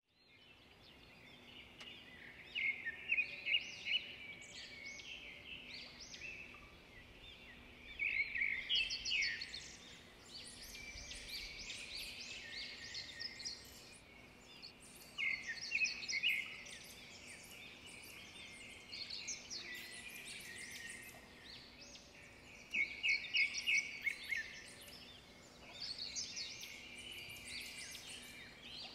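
Birds chirping and trilling in repeated bursts every few seconds, over a faint steady hum.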